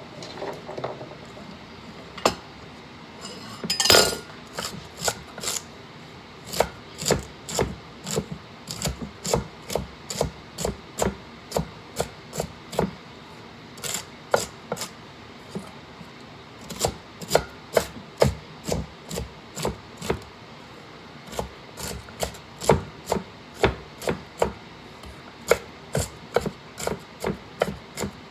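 Knife chopping on a cutting board: a steady run of sharp strikes at about two a second, broken by short pauses, with one louder knock about four seconds in.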